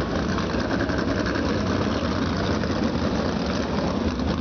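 Several USAC Silver Crown race cars' 360-cubic-inch alcohol-burning engines running together just after start-up, a steady dense mix of engine noise at idle.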